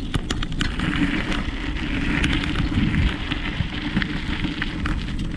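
Bicycle riding along a dirt trail: tyres crackling over the surface with many short clicks, and a heavy rumble of wind on the microphone.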